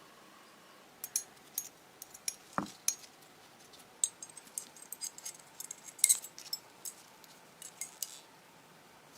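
Small steel pistol parts and tools being handled on a workbench: scattered light metallic clicks and clinks, with one dull knock about two and a half seconds in.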